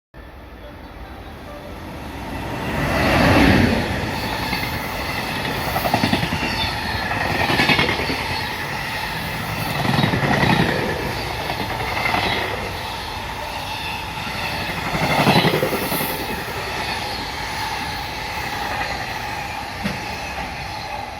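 A train running along the platform track. The wheels clatter over the rail joints in a rhythm of loud swells every two to three seconds as each car goes by, easing off near the end.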